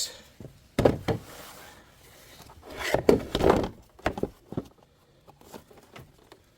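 Handling noises as the used paper air filter is taken out and turned over: a sharp knock about a second in, rubbing and scraping around three seconds, then a few light clicks.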